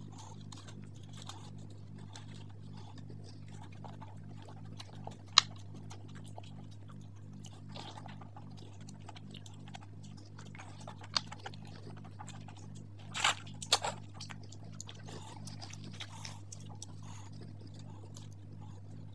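Close-miked eating of mutton curry and luchi by hand: wet chewing and mouth smacks, with a few sharp clicks about five seconds in and again around thirteen seconds, over a steady low hum.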